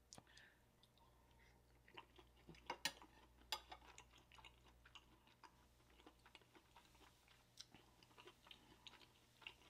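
Faint, close-miked chewing of a sauced steamed dumpling: soft, wet mouth clicks and smacks. A few louder ones come around three seconds in.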